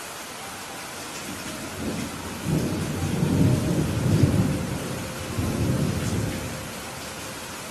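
Rolling thunder over steady rain: a low rumble builds about two seconds in, peaks in the middle, swells once more and fades near the end, while the rain hiss goes on evenly underneath.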